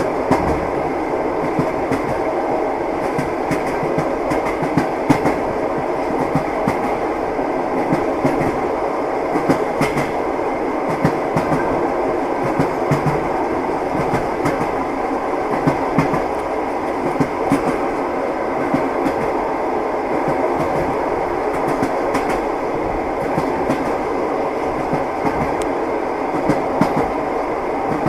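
Train wheels clattering on the rails at steady running speed: a continuous rumble with irregular clicks and knocks as the wheels pass over the rail joints.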